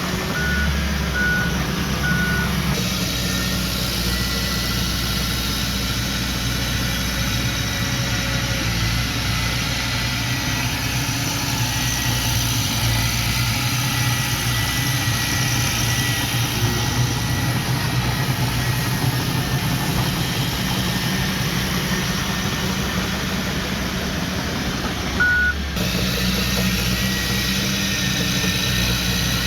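Heavy diesel earthmoving machinery running steadily, with a reversing alarm beeping three times in the first couple of seconds and once more near the end.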